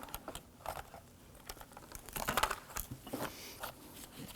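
Light clicks and rattles of an exterior car door handle assembly and its metal reinforcement bracket being handled and turned over, with a denser, louder run of clicks a little past halfway.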